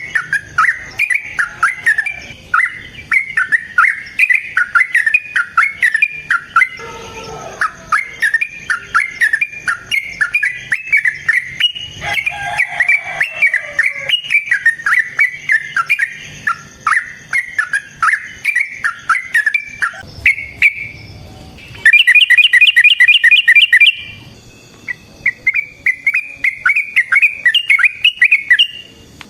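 Yellow-vented bulbuls (trucukan) singing a long, fast run of bubbling, chattering notes, the lure song used to draw other trucukan into answering. About 22 seconds in, a loud, rapid, even trill lasts about two seconds and is the loudest sound; the chattering song then resumes.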